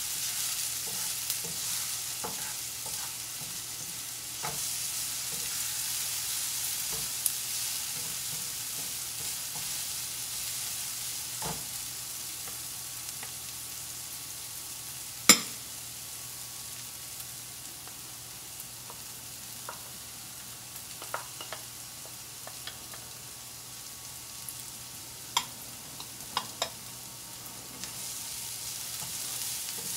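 Diced red onion frying in olive oil in a nonstick pan, a steady sizzle, stirred with a wooden spatula that clicks and knocks against the pan now and then. The sharpest knock comes about halfway, with a few more near the end.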